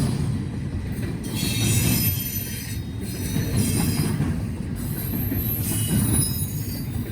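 Freight train rolling past, wheels rumbling steadily on the rails, with high-pitched wheel squeal coming and going several times.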